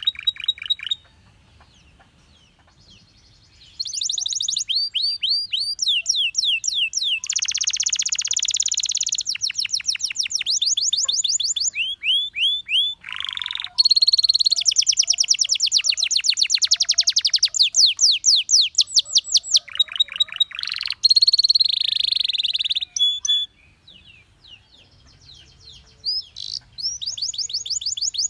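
Canary singing: long phrases of fast repeated high notes and rolling trills, broken by two short pauses.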